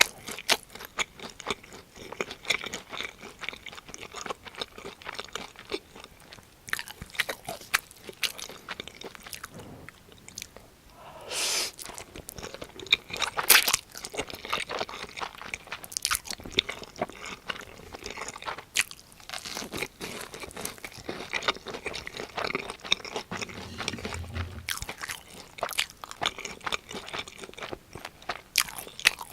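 Close-miked eating sounds: crisp crunching, biting and chewing of fried breaded cheese pork cutlet and fire noodles, in many sharp separate crunches. A longer, noisier sound comes about eleven seconds in.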